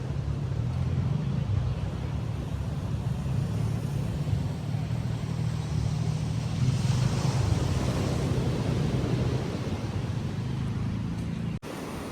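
Wind buffeting the microphone over small waves breaking on a beach, with a wave washing in about seven seconds in. The sound cuts out abruptly for an instant near the end and returns quieter.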